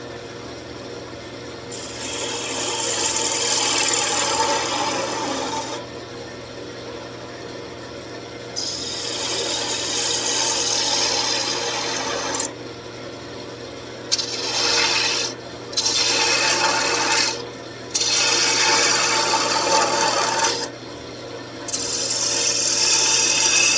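Wood lathe running with a turning tool cutting a spinning wooden blank in repeated passes. Each cut is a stretch of scraping hiss lasting a second to a few seconds, with short gaps where only the lathe's steady hum remains.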